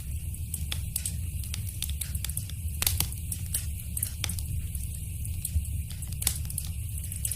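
Wood fire in a fireplace crackling, with frequent small pops over a low steady rumble of the flames; two sharper pops stand out about three and six seconds in.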